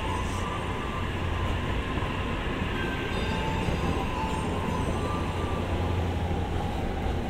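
E259 series electric multiple unit running past on the rails: a steady rumble with a faint high whine that wavers in pitch.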